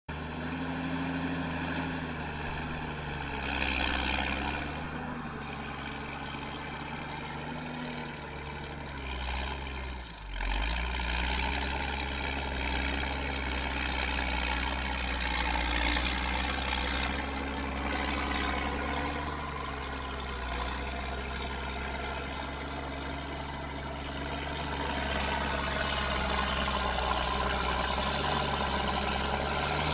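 Heavy truck's diesel engine running under load, its pitch rising and falling, with a brief break about ten seconds in.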